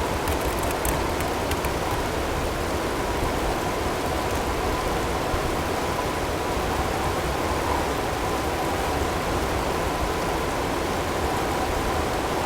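Steady blizzard ambience of wind and hail, an even rushing noise with a few faint ticks about a second in. A faint steady tone sits underneath it, blended into the recording.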